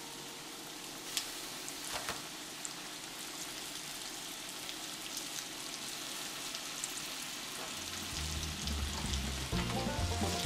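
Battered chicken wings frying in hot oil in a cast-iron skillet: a steady sizzle, with two light clicks in the first two seconds.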